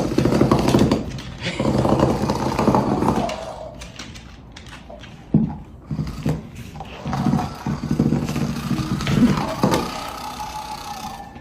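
Dog growling and grumbling in several long bouts, with a single sharp knock about five seconds in.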